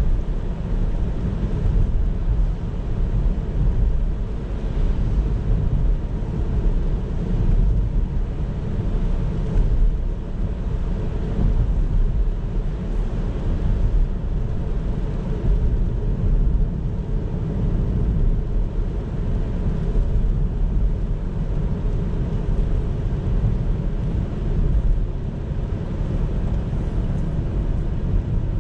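Steady low rumble of a car on the move: tyre and road noise with engine hum, heard from inside the car.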